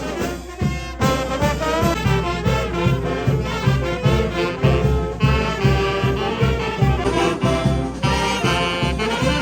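Brass band playing a lively dance tune, trumpets and trombones over a steady bass drum beat. The music dips briefly and comes back in sharply about a second in.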